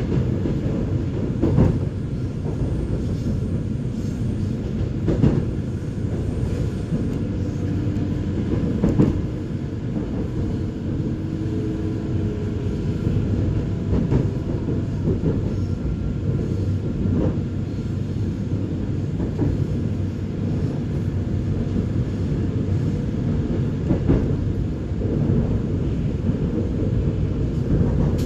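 Gyeongui–Jungang Line electric commuter train running along the track, heard from aboard: a steady low rumble with a few sharp knocks at irregular intervals.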